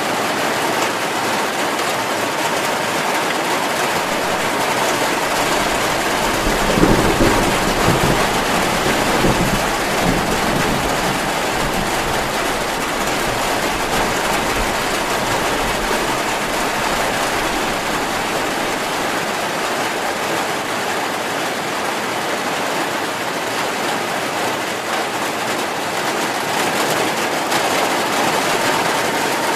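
Steady heavy rain, an even hiss of falling water. About seven seconds in, a low rumble swells and fades away over about four seconds.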